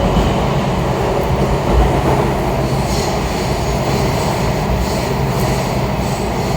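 Kawasaki 7000-series Washington Metro railcar running between stations, heard from inside the car: a steady rumble of wheels and running gear on the track, with faint high streaks of sound in the second half.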